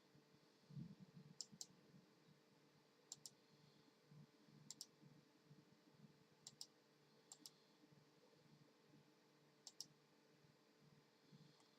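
Faint, sharp clicks, most of them in quick pairs, coming every one to two seconds over a low, steady hum.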